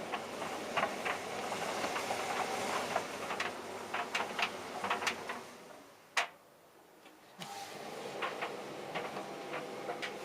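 Tumble dryer running with a load of jeans: a steady hum with irregular clicks and knocks as the load tumbles against the drum. The sound drops away for about two seconds a little past the middle, with one sharp click, then comes back.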